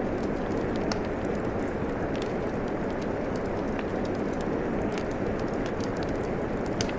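Steady rainfall with a wood fire crackling over it: a constant even hiss of rain and scattered sharp pops and snaps from the burning wood, the loudest pop just before the end.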